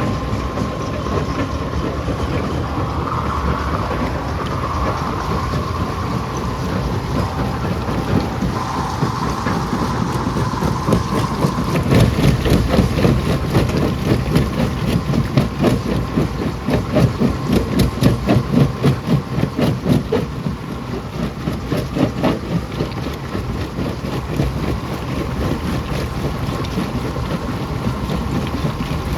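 Rock crusher and heavy machinery running with a loud, steady rumble and a steady whine in roughly the first ten seconds. From about twelve seconds in, rocks crash and clatter in rapid, uneven pulses for about ten seconds as the load goes into the crusher.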